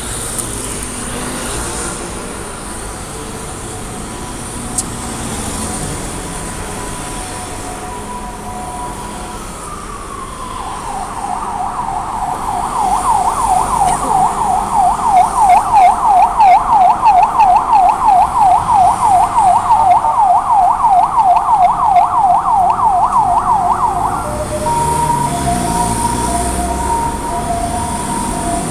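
Emergency vehicle siren over road traffic noise. A faint high-low two-tone grows into a loud, rapid yelping wail about ten seconds in, at about three sweeps a second. Near the end it switches back to the alternating two-tone.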